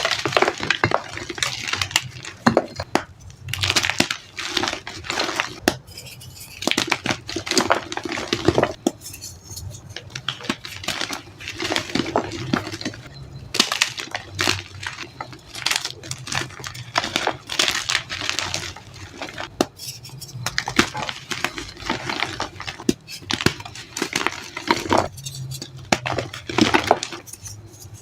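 Reformed gym chalk being crushed and crumbled by hand: gritty crunching and crackling in repeated bursts, with short pauses between squeezes.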